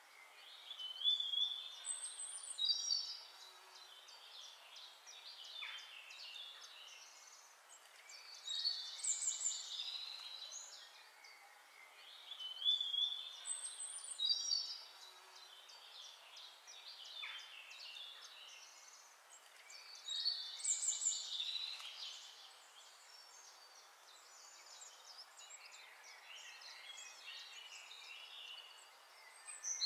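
Birds singing: bursts of high chirps and trills every few seconds over a faint steady hiss.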